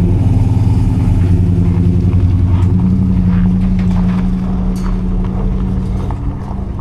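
1976 Ford F-250's engine running under load while towing a heavily loaded trailer. The engine note steps up slightly about three seconds in, and the sound eases a little toward the end.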